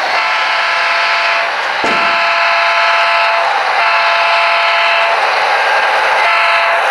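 Model locomotive's onboard sound unit blowing a multi-note train whistle in about four long blasts separated by short breaks.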